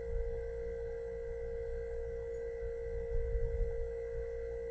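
A steady, unchanging tone, like a held tuning-fork note, over a faint low rumble.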